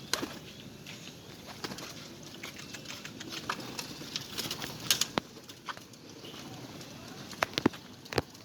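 Pigeons flapping their wings, with a run of sharp claps, the loudest about halfway through and a cluster near the end.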